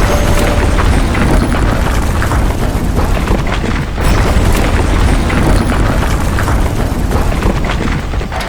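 Loud, continuous rumbling and booming with crackles through it, like a large explosion or collapse. It dips briefly about four seconds in, then surges again.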